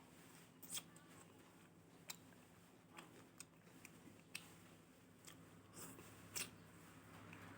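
Faint close-up eating sounds: a person chewing and biting, with about seven short, sharp crunches and clicks at irregular intervals.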